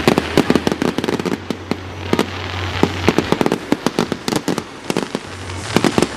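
Fireworks display: a rapid string of sharp bangs and cracks, several a second, easing off for a moment past the middle and picking up again near the end.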